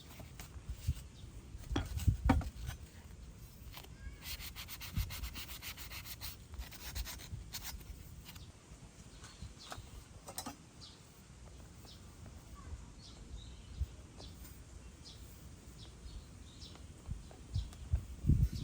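Quick scraping or rubbing strokes, like sanding or filing, run for a few seconds. Scattered knocks and clunks come before and after them.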